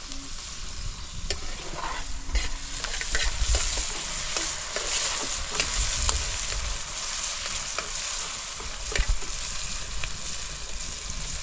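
Food sizzling in hot oil in a pan, with a steady hiss and many sharp crackles and pops throughout.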